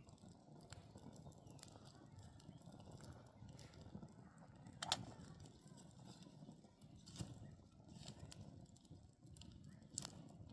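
Quiet outdoor background with a few sharp clicks or snaps, the loudest about five seconds in.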